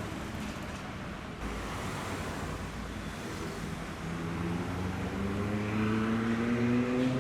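A car engine with road noise; from about four seconds in, the engine note rises slowly in pitch and gets louder.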